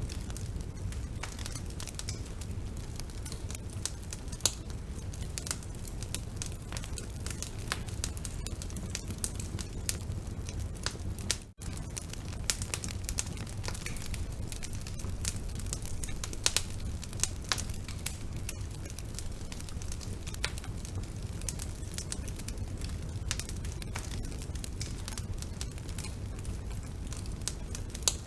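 Wood burning in a fireplace: a steady low rumble of flames with frequent sharp crackles and pops from the wood, and a split-second dropout near the middle.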